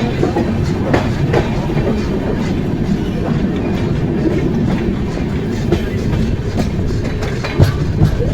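Amrit Bharat Express passenger train running along the track, a steady rumble with wheels clacking over rail joints now and then and one sharper knock near the end.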